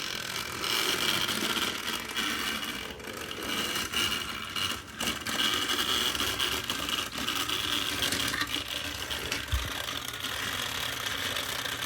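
Two battery-powered toy train engines whirring and rattling as they strain against each other on the track, both moving very slowly.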